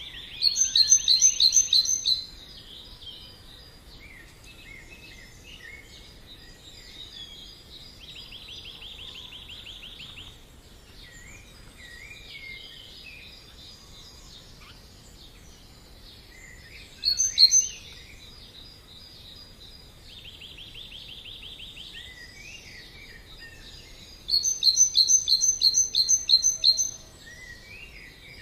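Several songbirds singing: a loud run of rapid, evenly repeated high notes near the start and again near the end, with a short burst of it in the middle, buzzy trills a few times, and scattered chirps between.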